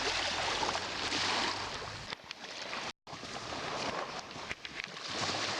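Wind buffeting the microphone and sea-water hiss aboard a small fishing boat, with a low steady hum for the first two seconds. The sound cuts out completely for an instant near the middle.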